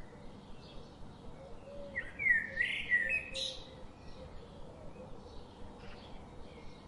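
A songbird singing in the background: one louder warbled phrase with quick rising and falling notes about two seconds in, and fainter chirps around it.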